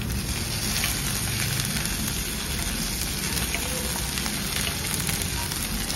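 Chopped onions and green chilli-garlic thecha sizzling steadily in hot oil in a kadhai as they are sautéed and stirred with a wooden spatula.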